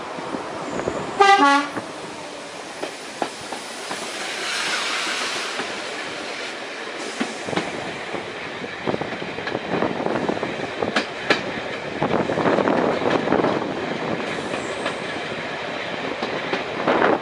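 A train's horn gives one short blast about a second in. Then comes the steady running noise of a train, with scattered clicks and rattles of the wheels over the track.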